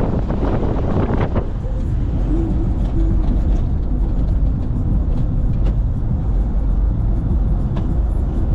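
Steady low rumble of a vehicle on the move, engine and road noise with a few faint clicks.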